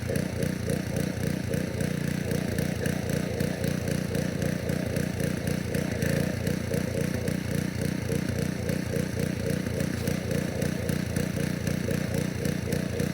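Pressure washer's small engine running steadily, with the hiss of water jetting from a radiator cleaning wand behind a car radiator.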